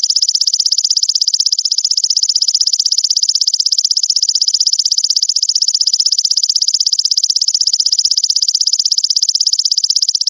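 Grasshopper (belalang) stridulating: a loud, continuous, high-pitched buzzing trill made of very rapid pulses, holding steady without a break.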